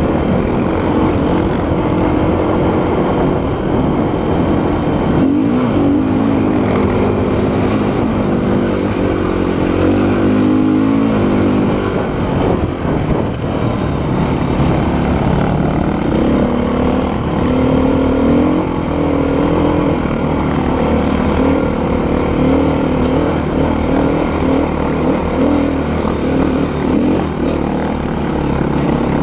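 Dual-sport motorcycle engine heard from on board while riding a rough dirt track, its pitch rising and falling with the throttle, over a steady rush of wind noise.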